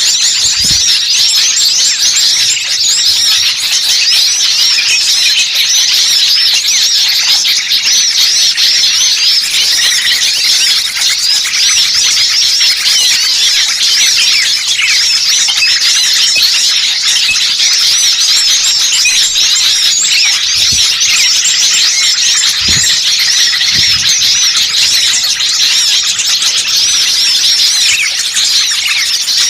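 A dense chorus of many small songbirds chirping and twittering over one another without a break, as in a bird-trapping lure recording meant to draw in wild birds.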